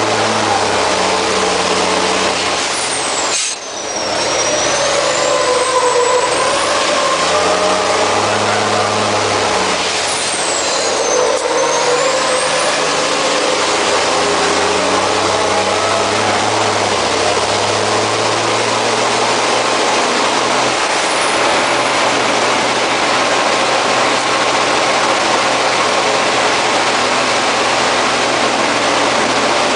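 MAN race truck's diesel engine running hard on track, heard from on board over a constant rush of noise, its pitch stepping up and down as it works through the gears. The loudness dips sharply once, about three and a half seconds in, and two high whistles swoop down and back up in the first twelve seconds.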